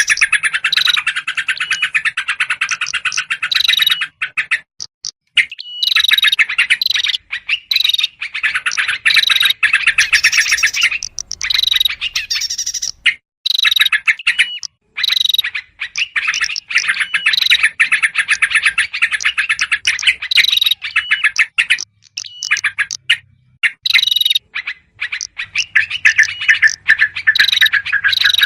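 Bird-lure recording of yellow-vented bulbuls chattering excitedly, mixed with the calls of other small birds such as prinias: a dense run of rapid chirps, broken by a few short pauses.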